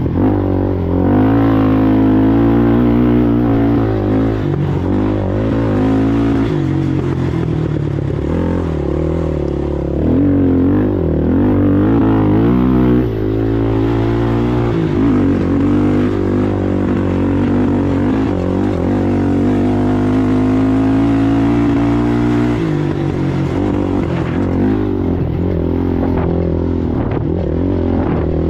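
Racing ATV engine running hard, its pitch rising and falling as the throttle is worked, steadier for a few seconds past the middle.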